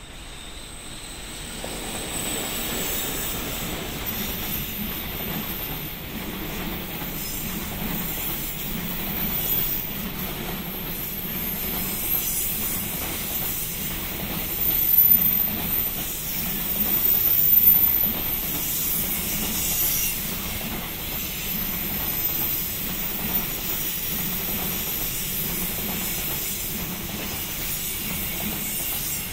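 Container freight train hauled by an electric locomotive rolling past, its wagon wheels rumbling and clacking in a fast steady rhythm over rail joints. High thin wheel squeal rides over it, and the noise is loudest around the middle.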